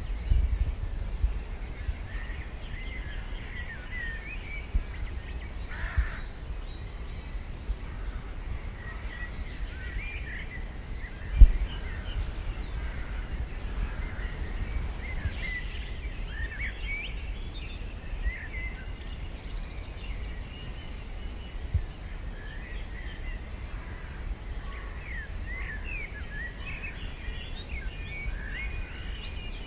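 Small birds chirping and singing over a low, buffeting wind rumble on the microphone, with one sharp knock about a third of the way through.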